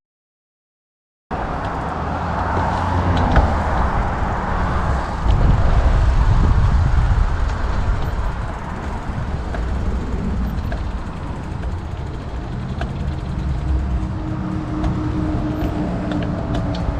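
Wind buffeting the camera's microphone while riding a mountain bike along a park path, a rough, steady rumble that starts abruptly about a second in.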